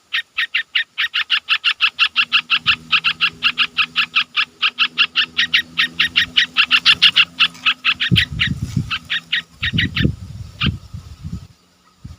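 A bird giving a rapid series of short, sharp call notes, about six a second, that slows and thins out after about eight seconds. Low rumbling bursts come in about eight seconds in and again around ten seconds.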